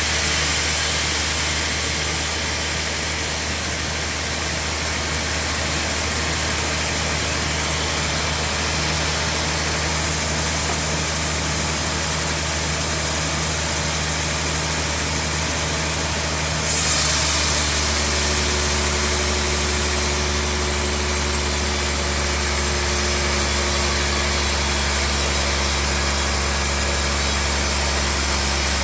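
Sawmill band saw machinery running with a steady hum and hiss. About 17 seconds in the sound shifts abruptly, briefly louder, with stronger hiss and a new steady hum.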